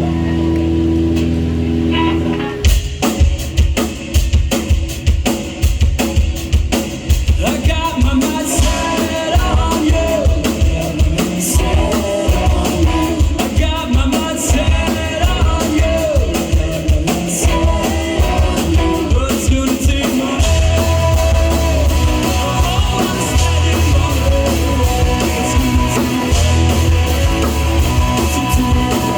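Live rock band playing: a held chord for the first couple of seconds, then the drum kit comes in with a steady beat under guitar and bass. A singer's voice joins several seconds later.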